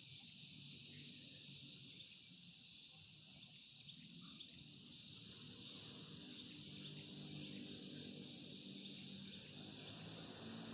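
Steady high-pitched insect chorus, like crickets, with a faint low hum underneath.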